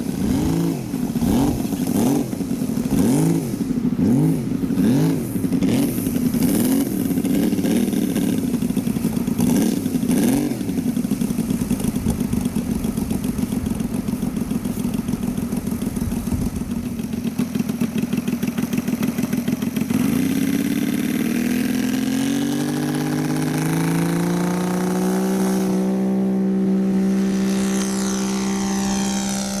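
Saito three-cylinder gasoline engine of a radio-controlled Zero fighter model running. Its pitch wobbles up and down for roughly the first ten seconds, then holds steady, and from about two-thirds of the way in it rises to a higher, steady note as the throttle is opened.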